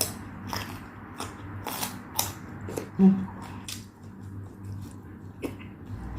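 Close-up eating sounds: a string of crisp bites and chews, about one every half second at first and sparser later, with a brief low hum a little after three seconds in.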